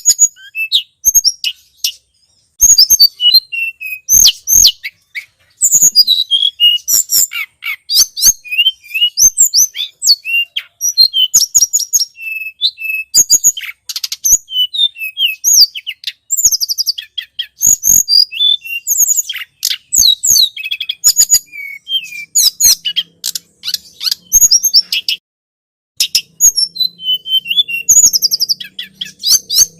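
Recorded song of a tledekan gunung bird played as a bird lure: rapid, high-pitched chirps and short trills in dense bursts, broken by brief pauses. A faint low hum sits under the song in the last few seconds.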